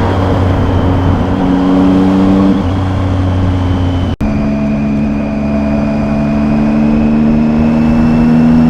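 Triumph motorcycle engine running under way, its note steady at first and then rising slowly as the bike speeds up. The sound cuts out for an instant about four seconds in.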